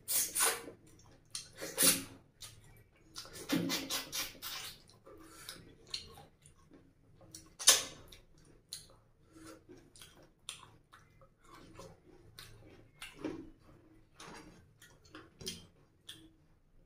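Close-miked wet chewing and lip smacking of a person biting into and eating a piece of mutton curry by hand: irregular sharp smacks and clicks, loudest about two seconds in and again near eight seconds.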